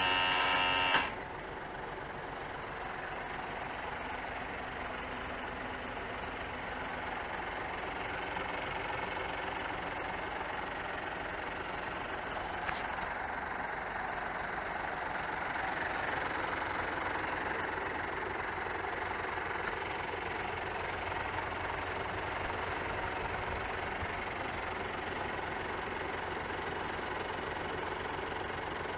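Isuzu Giga truck's straight-six turbo diesel engine idling steadily and quietly, heard with the cab tilted. A motor hum cuts off with a click about a second in.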